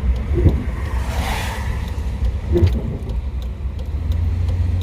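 1970 Chevrolet dump truck's engine running under way with a steady low rumble. Two short knocks come from the truck, the first about half a second in and the second about two and a half seconds in, with a brief hiss just after a second.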